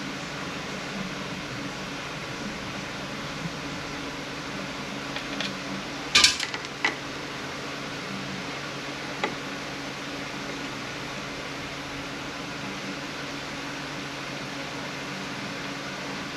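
Steady hum of a shop fan. A few sharp metallic clinks of tools and parts come about six seconds in, and one more comes a few seconds later.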